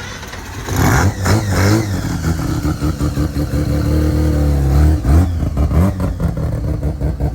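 Loud car engine revving: it jumps up suddenly about a second in, swings up and down in pitch, holds steady, then drops briefly and picks up again.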